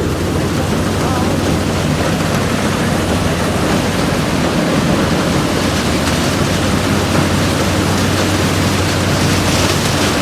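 Combine harvester running steadily while cutting paddy: a loud, even machine noise with a constant low hum underneath.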